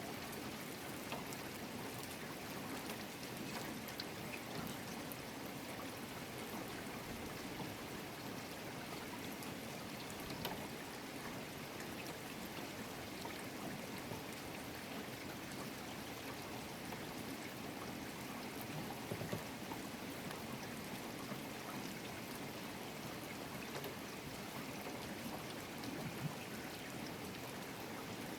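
Steady rainfall with water running and pouring, and scattered small drops ticking throughout, a few a little louder near the end.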